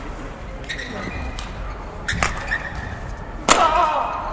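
Badminton rally: sharp racket strikes on the shuttlecock about once a second over steady arena background noise. A louder hit about three and a half seconds in is followed by a shout.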